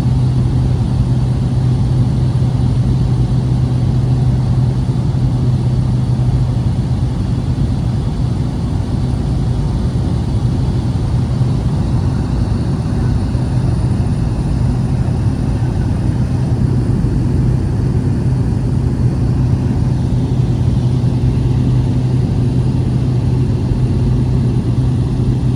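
Light propeller aircraft's engine and propeller droning steadily in cruise, heard inside the cabin as one constant low hum.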